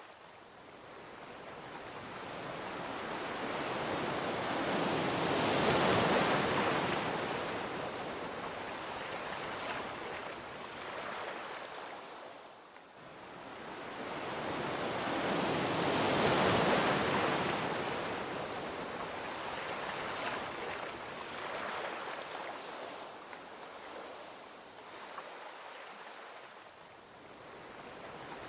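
Gentle ocean waves rolling onto a beach, each one swelling up and washing away. Two larger waves break about ten seconds apart, followed by smaller washes.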